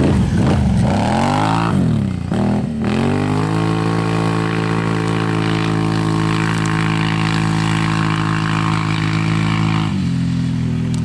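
Bombardier motor vehicle's engine revving, its pitch rising and falling over the first few seconds. It then holds a steady high pitch for about six seconds and drops suddenly to a lower pitch near the end.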